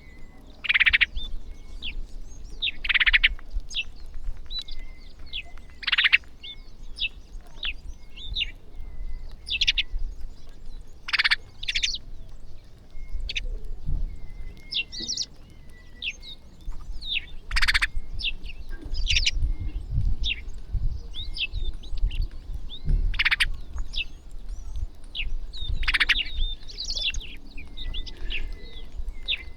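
A flock of small birds chirping constantly while feeding, with many overlapping short calls and a louder call every few seconds.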